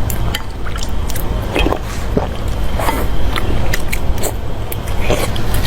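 Close-miked eating sounds: chewing, with irregular wet smacks and clicks of the mouth over a steady low hum.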